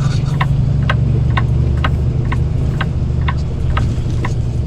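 Semi truck's diesel engine idling, heard inside the cab, with the turn signal clicking steadily about twice a second.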